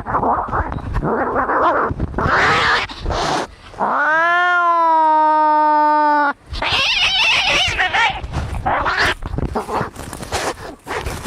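Cats fighting: ragged hissing and spitting, broken about four seconds in by one long yowl that rises and then holds steady for about two seconds, followed by more hissing and screeching.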